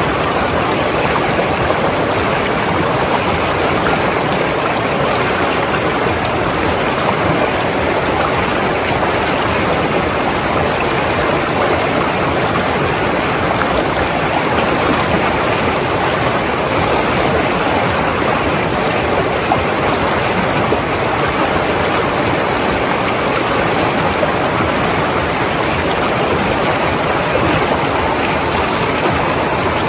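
Mountain river flowing over rocks: a steady rushing, gurgling water sound with no breaks.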